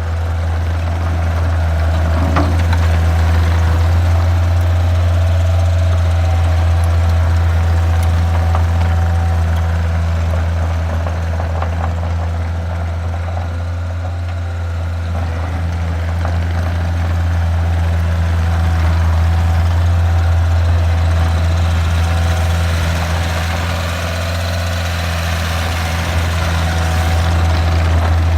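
2004 Takeuchi TL130 skid steer's diesel engine running steadily, a deep even drone whose loudness swells and eases slightly.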